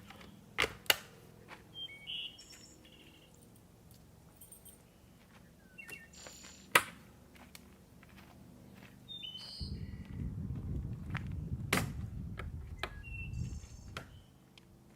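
Small birds chirping now and then, with a few sharp clicks or knocks, the loudest two just under a second in and one near the middle. A low rumble of noise comes in about two-thirds through and fades near the end.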